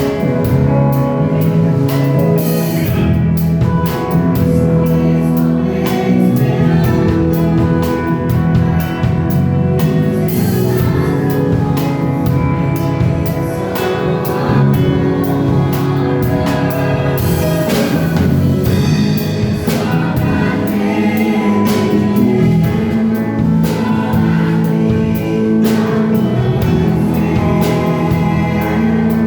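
Christian praise music: voices singing a worship song over instruments, with drums keeping a steady beat.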